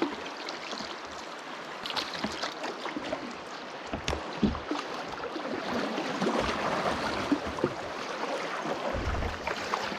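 Water splashing and lapping around a canoe on a river, with scattered light knocks and a few dull thumps.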